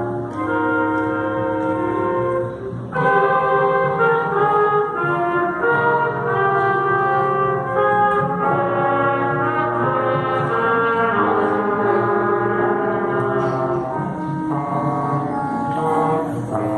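Middle school ensemble with prominent brass playing a slow piece in long held chords, swelling fuller and louder about three seconds in.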